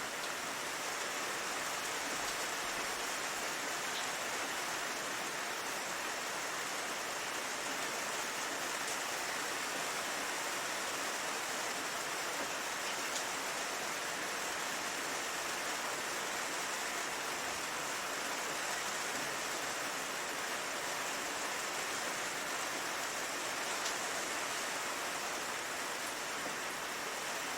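Steady rain falling, an even dense hiss with a few faint drop ticks.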